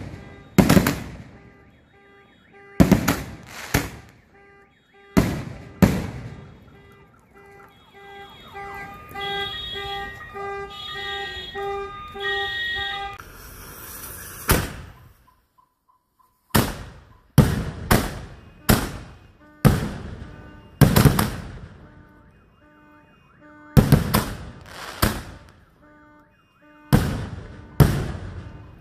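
Rack-fired consumer canister shells (Executioner 5-inch shells): a run of sharp bangs as the shells burst overhead, coming in quick clusters, with a hissing launch blast from the rack midway. Through the middle and again near the end, a car alarm sounds in steady, rapidly repeating pulsed tones under the bangs.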